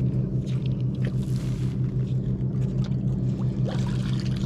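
A motor running steadily: an even low drone with a fast, regular pulse, with a few faint clicks over it.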